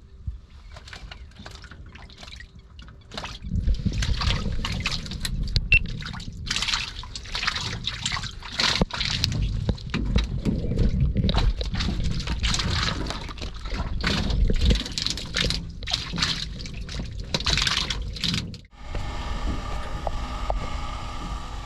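Water splashing and sloshing irregularly as cage fish traps and their catch are handled at the water's edge. Near the end it cuts abruptly to a steady engine hum.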